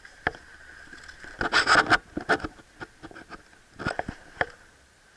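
Airsoft gun firing: short bursts of sharp snapping shots, a fast cluster about a second and a half in, a few single shots after it, and another short burst about four seconds in.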